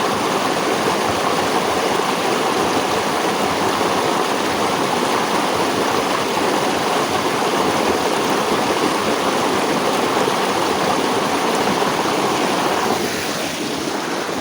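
Running water of a stream, rushing steadily; near the end it turns a little quieter.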